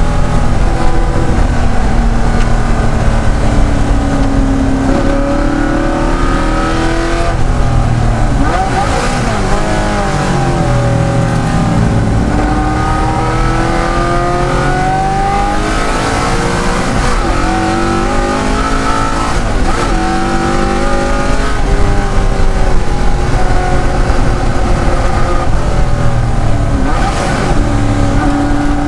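De Tomaso Pantera's V8 race engine under hard load, its note climbing through the gears and dropping back on the downshifts again and again.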